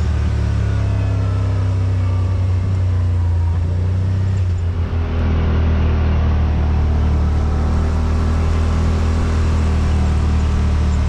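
Yamaha RMAX side-by-side's parallel-twin engine running steadily as it drives along the trail, heard from on board. It eases off briefly about five seconds in, then carries on.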